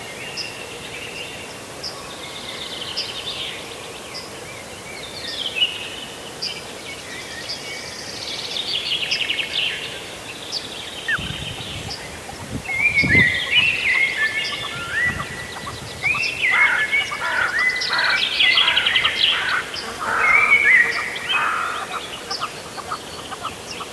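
Several birds calling and chirping together, with short repeated notes and quick upward-sweeping calls, sparse at first and much busier from about halfway through.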